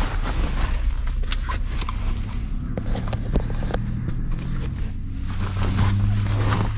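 Ford Mustang's engine idling with a steady low hum, heard inside the cabin, the hum growing stronger near the end. Over it come short rustles and clicks from a backpack being opened and rummaged on the back seat.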